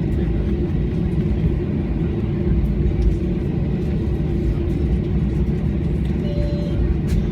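Aeroplane engines running steadily on the ground before take-off: a low rumble with a steady hum, even in level throughout. A faint short tone sounds about six seconds in.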